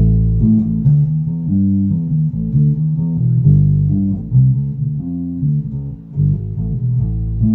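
Birdsong Fusion2 electric bass played on its neck soapbar pickup with the tone rolled back: a steady run of plucked low notes, with one note held for about a second near the end.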